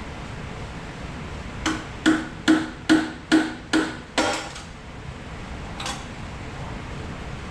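Seven evenly spaced metallic knocks, about two and a half a second, each ringing briefly, then a single fainter knock, over a steady low shop hum.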